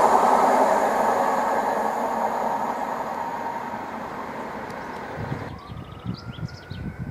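An InterCity 225 electric express passing at speed and running away, its rushing wheel-and-air noise fading steadily. About five seconds in the sound cuts abruptly to a much quieter scene, with a faint slowly rising whine and low gusts of wind on the microphone.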